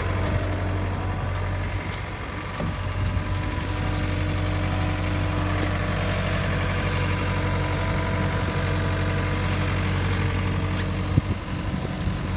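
Cat skid steer's diesel engine running steadily at idle, with a single sharp knock about eleven seconds in.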